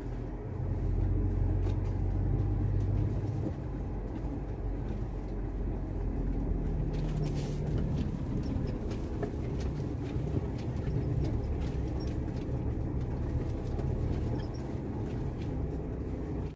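Iveco gas truck's engine running with a steady low rumble as the truck drives slowly, with scattered light knocks.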